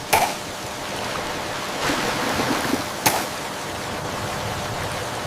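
Heavy rain and rushing water, a steady hiss, as storm water fills the harvesting tanks. Two sharp cracks stand out, one right at the start and one about three seconds in.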